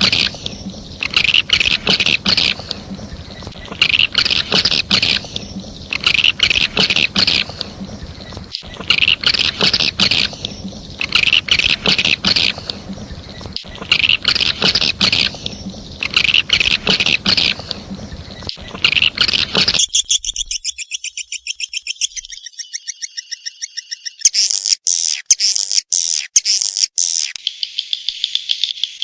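Recorded swiftlet calls of the kind played to lure swiftlets into a nesting house: rapid, high chirping twitters in bursts about every two seconds. About two-thirds of the way through it switches abruptly to continuous rapid buzzing trills.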